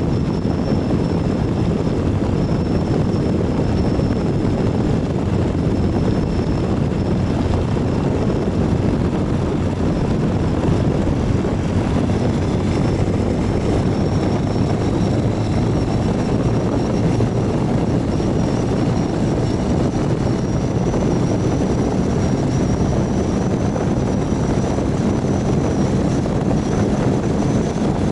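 Ural 750 motorcycle's flat-twin engine running steadily under way, mixed with wind and road noise.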